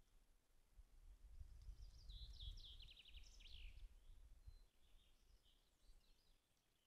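Faint songbird song: a quick trill of repeated high notes about a second and a half in, ending in a falling flourish, then a few softer calls, over a low rumble.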